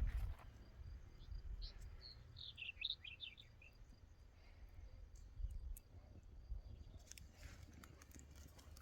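A few faint, quick bird chirps about two to three and a half seconds in, over a low steady background rumble.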